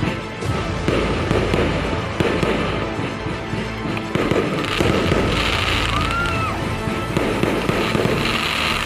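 A fireworks display going off in dense, continuous crackling and popping bursts, with a short rising-and-falling whistle about six seconds in.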